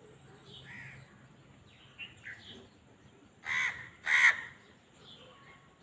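Two loud, harsh bird calls about half a second apart in the second half, over scattered faint chirps of small birds.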